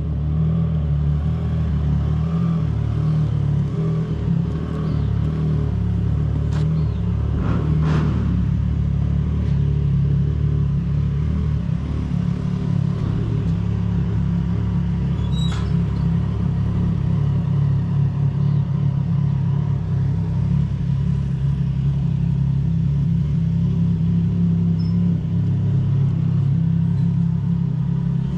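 A steady low mechanical rumble, like a motor or engine running, goes on without letup, with a few brief sharp clicks about a third and half of the way through.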